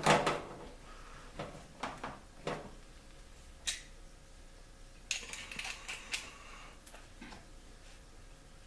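Scattered light clicks and taps of a screwdriver and screws on a microwave's sheet-metal cover as it is screwed back together, with a louder knock and rustle at the start and a quick run of clicks a little past the middle.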